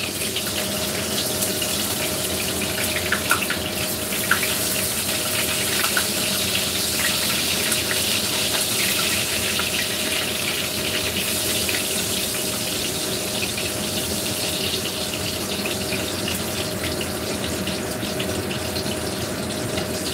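Eggplant rounds topped with minced fish shallow-frying in hot oil in a pan: a steady sizzle with fine crackling, with a few sharper clicks about three and four seconds in. A faint steady hum runs underneath.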